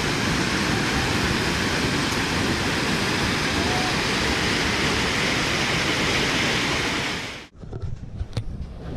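Steady rushing of a flooded, overflowing river. It cuts off abruptly about seven and a half seconds in, leaving a much quieter stretch with a few faint clicks.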